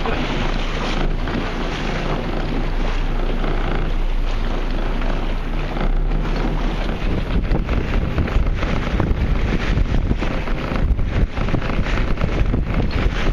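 Wind buffeting the microphone out on the water, a loud rushing noise that turns gustier and more uneven about halfway through.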